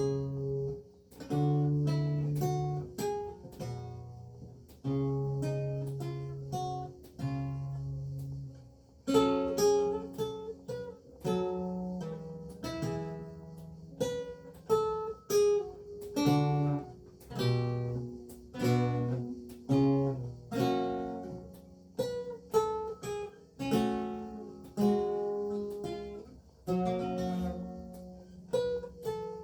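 Renaissance lute with gut strings played solo: single plucked notes and chords in a measured tune, each one ringing and fading before the next.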